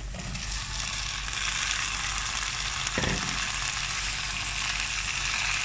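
Boiled broad bean pods, drained and rinsed, tipped into hot olive oil with fried onion and tomato paste, sizzling steadily in the pot. A single short knock about three seconds in.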